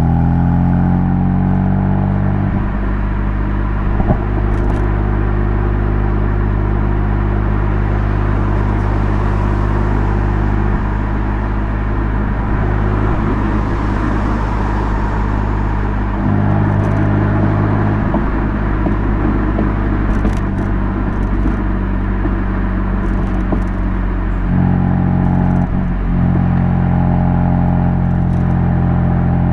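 BMW M3 F80's twin-turbo inline-six idling steadily while stopped, its idle note shifting slightly a few times.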